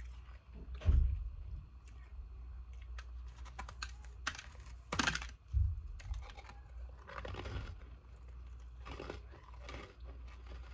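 Frozen ice pieces from a humidifier top being bitten and chewed close to the microphone: irregular crisp crunches and clicks in several bursts, the loudest about five seconds in, with a few low thumps.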